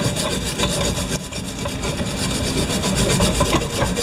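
Wire-feed welder arc crackling steadily as a bead is run on a mower's grass-bag frame.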